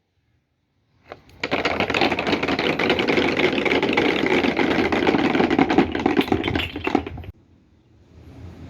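Snooker balls rolling and clattering along a wooden track: a dense run of rapid clicks over a rumble that stops abruptly after about six seconds. A softer rolling rumble builds near the end.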